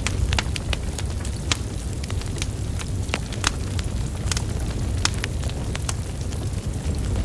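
Burning wood logs crackling: frequent sharp, irregular pops and snaps over a steady low rumble of flame.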